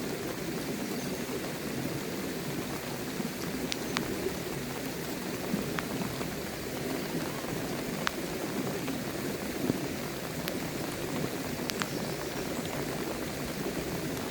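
Heavy rain falling steadily, with scattered single louder drops striking sharply every second or so.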